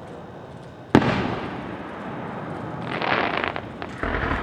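Fireworks display heard at a distance: one sharp boom of an aerial shell bursting about a second in, echoing away, then a stretch of crackling about three seconds in.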